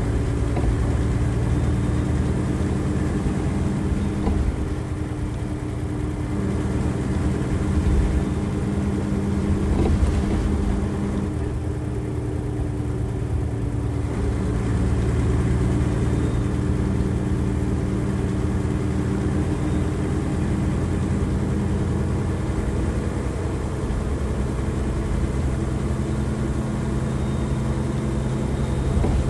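Nissan Diesel FE92TA bus's turbocharged diesel engine running under way, heard from on board. The engine note shifts a few times as the revs change, easing off briefly about 5 seconds in and again around 12 seconds.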